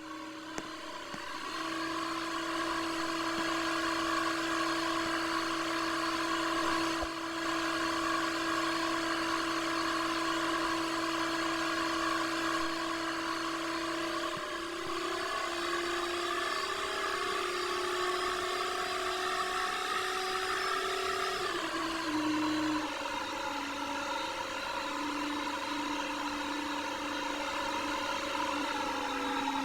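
Candy washing machine's motor running with a steady whine that edges slightly higher in pitch, then drops down a step about two-thirds of the way through.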